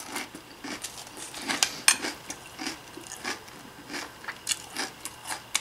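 A person chewing a mouthful of Tres Leches Toast Crunch cereal squares in milk, close to the microphone: soft, irregular crunches a few times a second.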